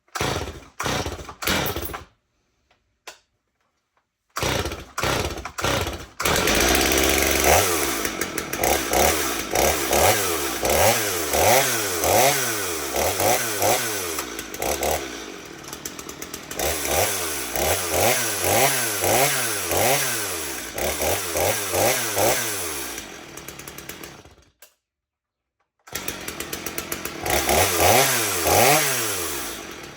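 Stihl MS 250 two-stroke chainsaw firing up on a warm engine after a few short bursts, then revved over and over, its pitch rising and falling about once a second. The sound cuts out completely twice.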